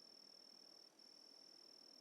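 Faint, continuous high-pitched trill of a night insect, steady on one pitch, with a brief break about a second in, over faint background hiss.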